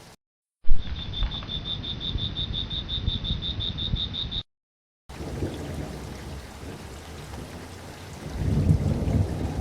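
Nature ambience of rain with a rapid, even, high-pitched chirping, like a cricket or frog, about six chirps a second. It cuts off abruptly, and after a short gap rain returns with a low rumble of thunder swelling near the end.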